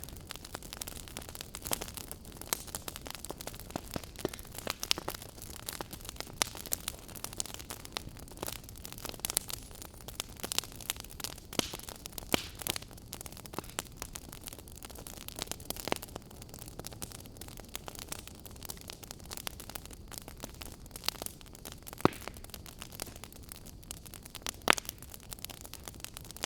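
Fire crackling: irregular sharp pops and snaps, a few much louder than the rest, one of them near the end, over a low steady hiss and rumble.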